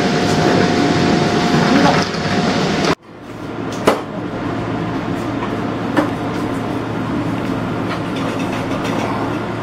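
HB-E300 series hybrid train running on the rails, with a steady rumble and a steady whine. About three seconds in the sound cuts off and resumes quieter and steadier, with a couple of sharp clicks.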